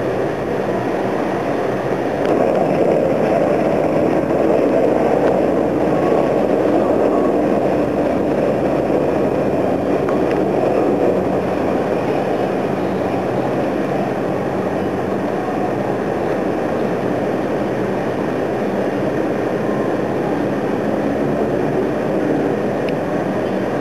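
Steady droning rumble of an airship's propeller engines overhead, swelling slightly a couple of seconds in and then holding.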